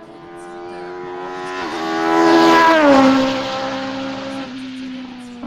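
Race car passing at full throttle up a hillclimb course. The engine note climbs and grows louder, dips briefly at a gear change, then drops in pitch as the car goes by and fades away.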